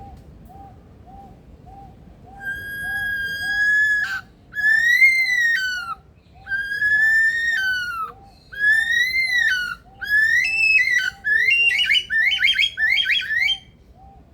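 Male superb lyrebird singing loud, clear whistled notes: first one long level whistle, then four arched whistles, each rising and then falling, then a quick run of short rising whistles near the end. A faint short note repeats underneath a little under twice a second.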